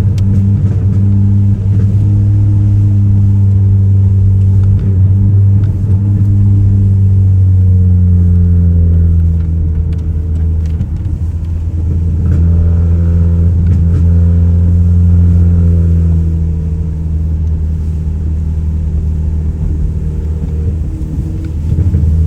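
Straight-piped Audi A3 8P exhaust, with the muffler and resonator deleted, droning loudly as the car is driven. The engine note drops about eight seconds in, picks up again, then eases off after about sixteen seconds.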